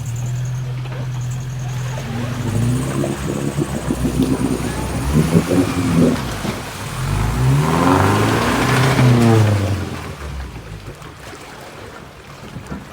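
1985 Toyota 4Runner's carburetted 3Y four-cylinder engine working under load as the truck crawls up a rocky waterfall, revving up and down in two surges, the louder one about eight or nine seconds in, then easing back.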